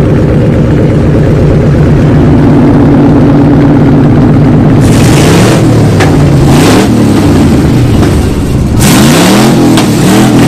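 A car engine running steadily at raised revs, then revved several times in quick blips from about five seconds in, its pitch sweeping up and back down with each blip.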